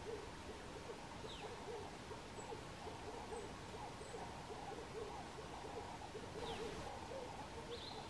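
A bird's low hooting call given as a steady rapid series, about three notes a second. Three high, thin, down-slurred whistles from another bird cut in, about a second in and twice near the end.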